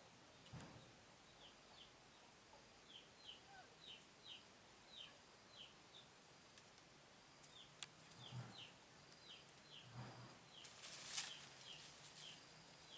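Faint chirping of a small bird: short, high, falling notes, mostly in pairs, repeated about twice a second with a few pauses. A brief hiss-like rustle stands out about eleven seconds in.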